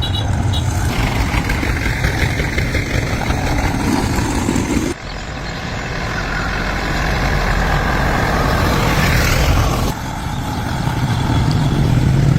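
Engine running steadily and loudly, heard in three pieces that cut abruptly about five and ten seconds in.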